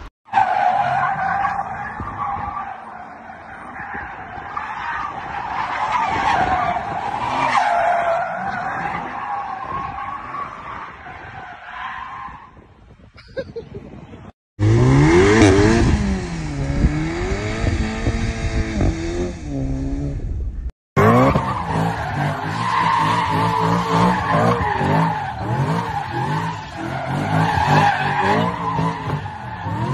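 Car tyres squealing in long, wavering screeches as cars skid. In the middle this gives way for several seconds to a car engine revving up and down. The sound breaks off abruptly at each change.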